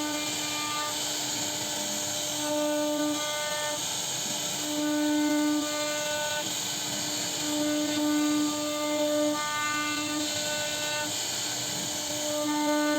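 CNC router spindle running while its bit cuts into wood: a steady high whine and hiss, with a pitched tone that strengthens and fades in stretches of about a second as the cutter bites and eases off.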